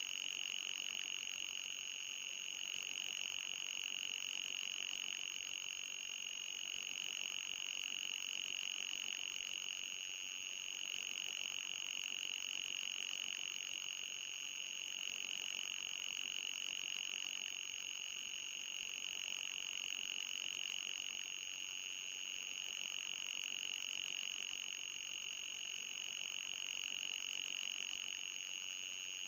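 Electronic anti-mosquito repellent tone: a steady high-pitched whine with a fainter, higher tone above it, unchanging throughout apart from slight slow swells in loudness. Though sold as ultrasonic, it is plainly audible.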